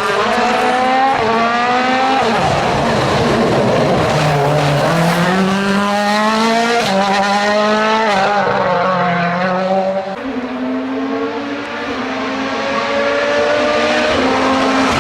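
World Rally Car's turbocharged four-cylinder engine driven hard on a special stage. It climbs in pitch through the gears with sudden drops at each shift, eases off and downshifts around ten seconds in, then pulls again, over tyre noise.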